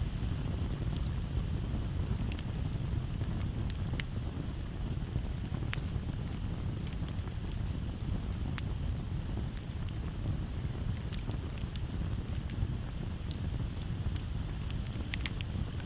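Campfire crackling, with scattered sharp pops over a low steady rumble of breeze, and crickets chirring steadily in the background.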